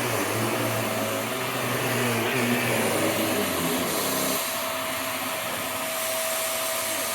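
Vax Air Stretch upright vacuum cleaner running with a steady motor whine. About four seconds in, its lower rumble drops away while the motor keeps going. A red light then shows on the cleaner, which the owner puts down to the brush.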